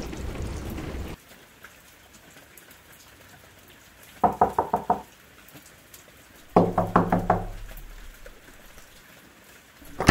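Two short runs of rapid knocking, about four seconds in and again about six and a half seconds in, each a quick series of four or five knocks. Before them, a steady hiss cuts off suddenly about a second in.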